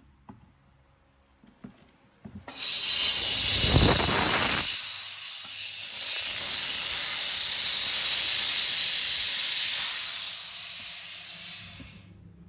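A loud, steady hiss starts suddenly about two and a half seconds in, with a low rumble under it for its first two seconds, and fades out near the end.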